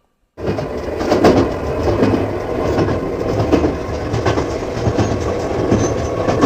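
Train running on the rails: a steady rumble with irregular wheel clatter, starting about half a second in.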